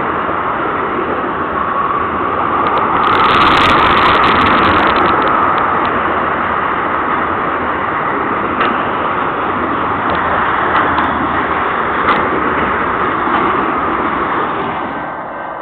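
Freight cars of a train rolling past: a steady rumble of steel wheels on the rails with scattered sharp clanks. It swells about three seconds in and fades away near the end.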